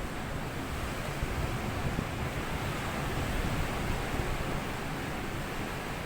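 Sea waves washing onto a sandy beach: a steady, continuous wash of surf with no single crash standing out.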